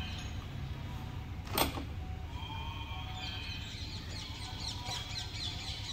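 Birds chirping in a quick series of short chirps from about halfway through, over a steady low hum, with one sharp knock about a second and a half in.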